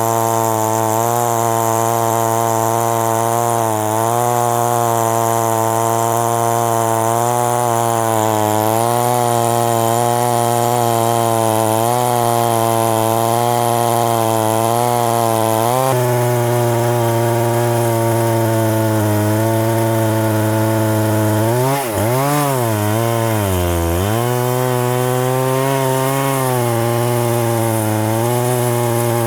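Two-stroke chainsaw running at high speed under load, cutting into the base of a very large tree trunk. About three-quarters of the way through, the engine speed drops sharply twice and picks back up: the saw bogging down in the thick cut.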